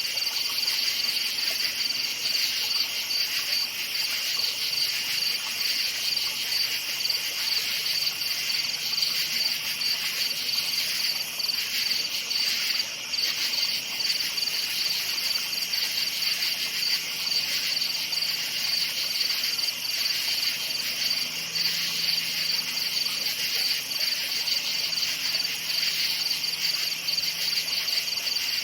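A chorus of crickets chirping steadily at night, a dense high-pitched pulsing trill that never lets up.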